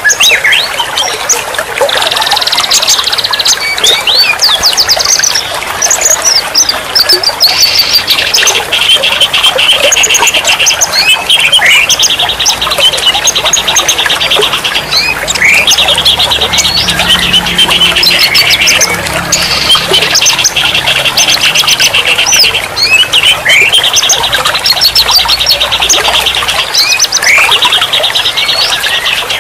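Songbird singing a repeated phrase: rapid buzzing trills of a second or two each, broken up by quick sweeping whistled notes, over a steady background hiss.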